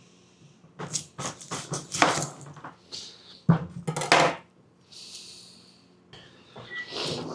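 Kitchen dishes and utensils clattering and knocking as they are handled on a counter, in two clusters of sharp knocks, with a brief hiss about five seconds in.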